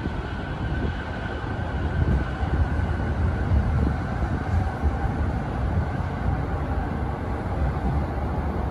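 JR E231-0 series electric commuter train pulling away from the platform. A steady rumble of its wheels on the rails, loudest a couple of seconds in, with a faint steady high tone above it.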